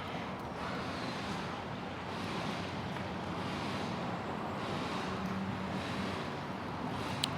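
A 2021 C8 Corvette convertible's power-retractable hardtop folding down on the remote, a steady mechanical hum of the top's motors, with one sharp click near the end.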